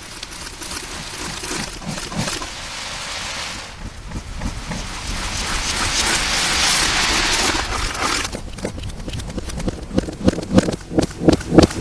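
Slime being squished and worked by hand, with distorted, processed audio. A hissing, crackling stretch in the middle gives way, about two-thirds through, to a quick run of wet, sticky clicks and pops.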